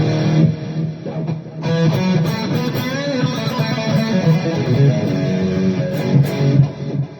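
Electric guitar played through a Donner Arena2000 multi-effects pedal: a chord rings out, then after a short break, about a second and a half in, a run of notes and chords continues until near the end.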